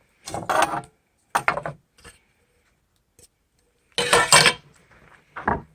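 Two-piece Coleman camping cook pot being handled, its metal parts clanking and rattling in four short bursts, the loudest about four seconds in.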